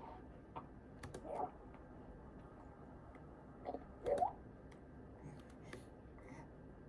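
Quiet, sparse computer keyboard typing and clicks. Twice, about a second and four seconds in, a brief squeak that slides up in pitch stands out above the clicks.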